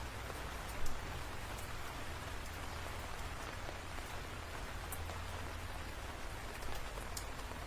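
Steady rainfall, with scattered sharper drop ticks and one louder tap about a second in.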